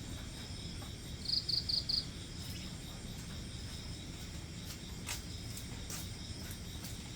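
Insects chirping steadily in high thin tones, with a louder run of four quick chirps a little over a second in.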